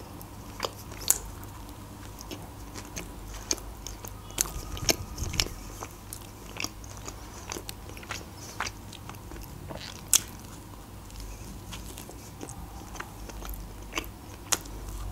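Close-miked chewing of a piece of McDonald's burger bun: irregular mouth clicks and soft crunches, with a few louder ones about a second in and near the ten-second mark.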